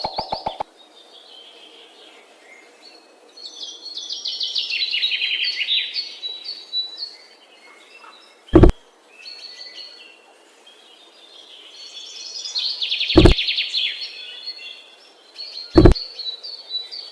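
Small birds chirping and trilling in two long bursts, with a few scattered calls between. Four sharp, loud clicks or knocks stand out, and a rapid pulsing buzz cuts off just after the start.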